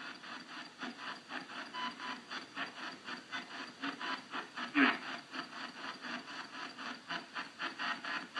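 Spirit box radio scanner sweeping through stations: choppy static pulsing about four times a second, with one brief louder blip about five seconds in.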